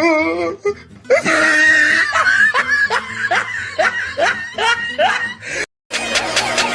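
A person laughing in a long run of short 'ha-ha' bursts, each falling in pitch, about three a second. After a brief dropout near the end, a loud, busy noise cuts in.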